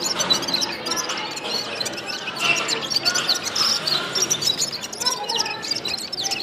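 A small songbird, the bird the uploader calls 'gulsar', singing a rapid, busy song of short chirps, quick gliding whistles and squeaky notes without a pause.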